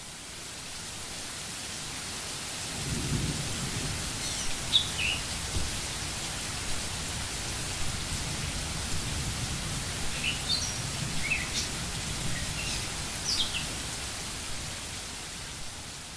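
Steady rain with thunder rumbling low, starting about three seconds in, and a few short bird chirps.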